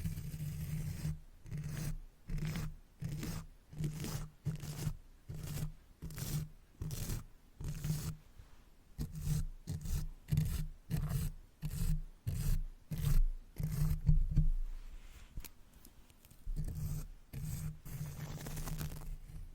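Makeup brush bristles swept over the microphone in short strokes, about two a second, each a brief swish with a low rumble from the mic. Near the end the strokes merge into a steadier, continuous brushing.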